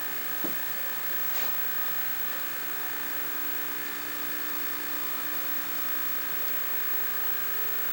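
Steady electrical buzz with hiss from the 1963 Philco Courier portable tube TV running on the bench, with a couple of faint clicks in the first second and a half.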